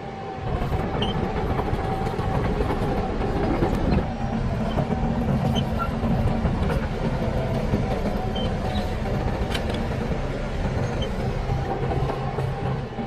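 Heavy diesel engine of earthmoving machinery running steadily with a deep rumble; its note changes about four seconds in.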